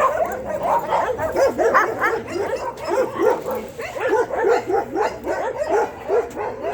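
Dog barking and yipping: many short, high barks in quick succession, several a second, without a break.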